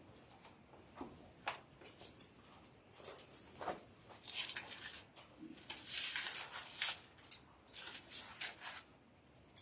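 Paper rustling as thin book pages are leafed through, with scattered soft rustles and clicks, busiest about four to nine seconds in.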